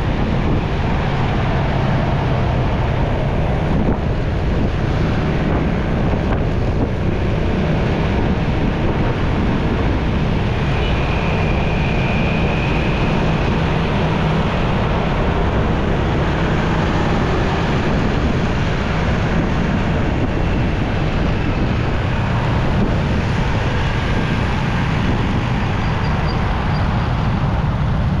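Steady wind rush on the microphone over the running of a motorcycle riding through traffic.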